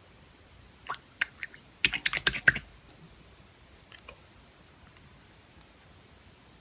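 A quick run of small sharp clicks and taps lasting under a second, led by a few single clicks, like hard little objects knocking on a tabletop.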